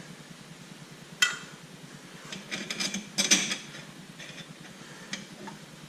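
Metal washers and air-filter hardware clinking as they are handled: one sharp clink about a second in, then a cluster of light clinks and taps a second or so later.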